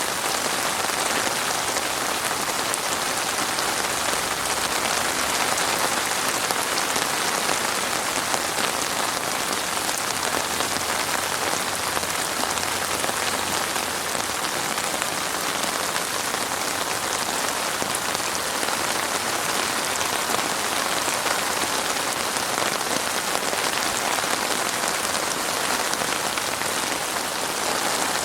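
Heavy rain falling steadily, a dense, even hiss of drops spattering on a surface.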